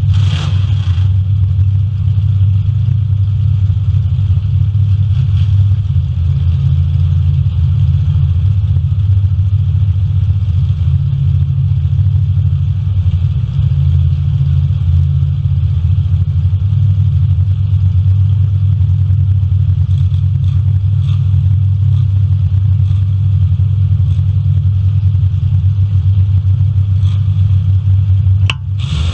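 Demolition derby cars' engines running in a steady low rumble, with a few faint knocks near the end.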